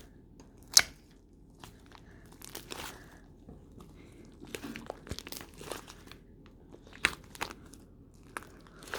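Close-miked crinkling and crackling, with irregular small crackles and two sharp, louder cracks, one about a second in and one about seven seconds in.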